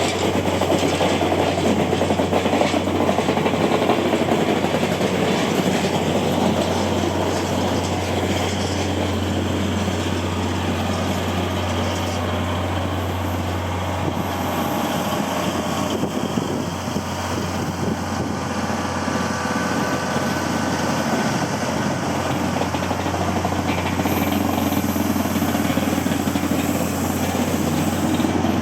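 A train running along the track, a steady rumble and rush of wheels on rails with a constant low hum, easing a little in the middle and building again near the end.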